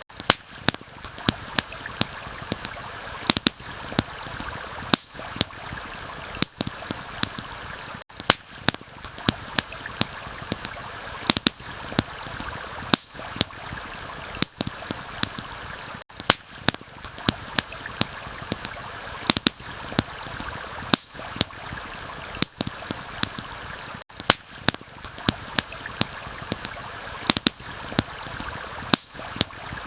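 Steady rushing of a stream, with the sharp, irregular crackles and pops of a campfire scattered through it, several a second and some much louder than others.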